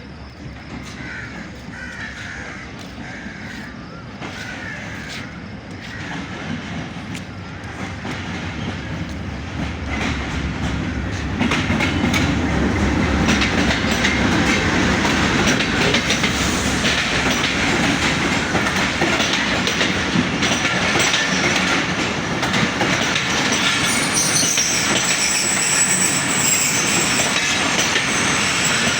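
Passenger train running into a station, growing steadily louder for about ten seconds and then passing close by with a dense clatter of wheels over the rails. High-pitched squealing from the wheels and brakes joins in near the end as it slows for its stop.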